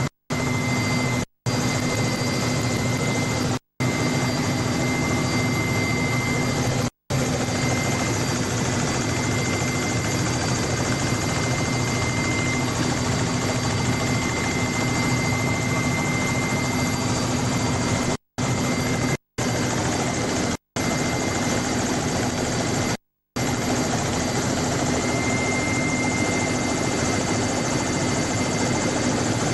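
Helicopter running steadily, heard from on board: a dense, constant drone with a steady whine. The drone drops out to silence briefly about eight times.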